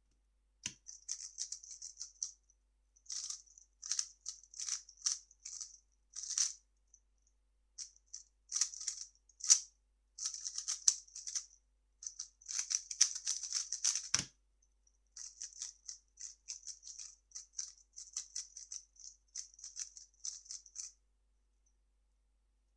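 3x3 speedcube being turned fast: bursts of quick plastic clicking and rattling, broken by short pauses. A single duller knock about 14 seconds in.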